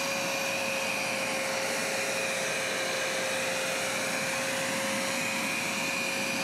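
Hoover SmartWash+ automatic carpet cleaner running, its suction motor giving a steady whine over a rush of air.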